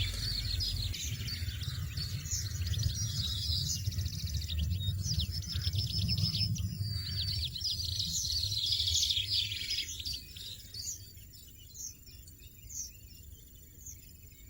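European goldfinches chirping: dense, rapid high twitters and trills that thin out to scattered chirps about ten seconds in. A low rumble underneath stops at the same point.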